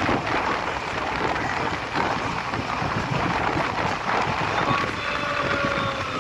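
Passenger train running at speed, heard from an open coach door: wind buffeting the microphone over the steady rumble of the coach's wheels on the track, with a faint whining tone near the end.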